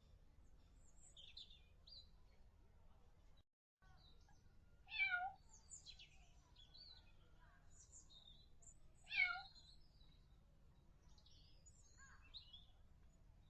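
A kitten meowing twice, two short high-pitched meows about four seconds apart, with faint high chirps in between.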